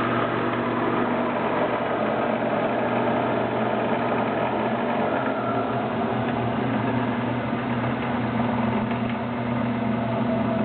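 Powermatic 45 wood lathe running under its 3/4 hp three-phase motor with a steady hum while the Reeves variable-speed drive is shifted down from top speed to slow speed, the headstock sheave closing.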